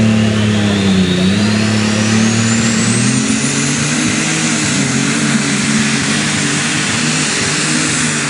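International unlimited super stock pulling tractor running hard under load down the track, its engine note dipping about a second in and then climbing around three seconds in. A high turbo whine rises over the first three seconds and then holds.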